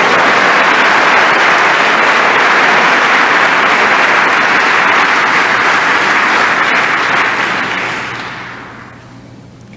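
Large audience applauding and cheering, steady and loud, then dying away over the last couple of seconds.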